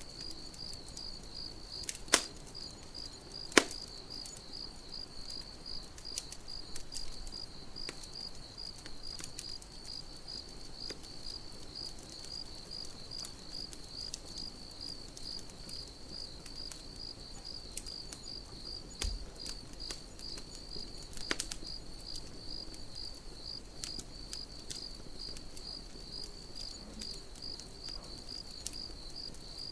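Crickets chirping steadily in a rapid, even pulse, over a campfire crackling with occasional sharp pops; the two loudest pops come about two and three and a half seconds in, and another comes near the middle.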